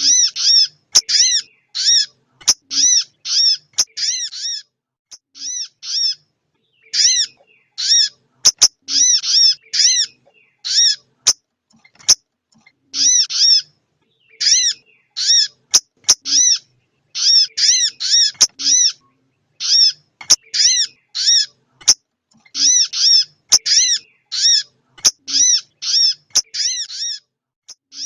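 Bird-lure recording of a female sogon ontong calling the male: short, arched notes repeated in quick runs of several, with short pauses between runs. Occasional sharp clicks.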